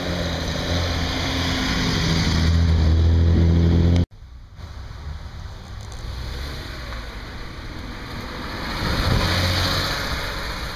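A classic car's engine running and revving close by, cut off abruptly about four seconds in. Then the air-cooled flat-six of a 1970s Porsche 911 Targa pulling away and accelerating, swelling to its loudest near the end and then fading.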